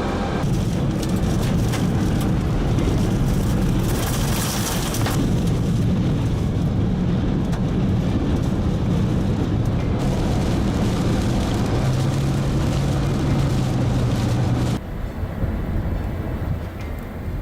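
Loud, steady rushing storm wind from tornado footage, with a low steady hum underneath. The sound changes abruptly about fifteen seconds in, where the footage cuts.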